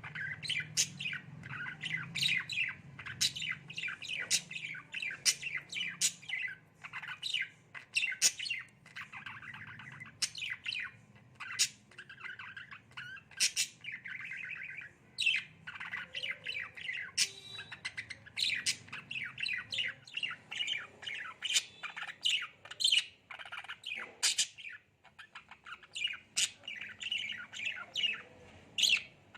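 Budgerigar chattering in a rapid, continuous stream of short chirps and squawks, with a few longer warbling runs, the chatter of a contented budgie.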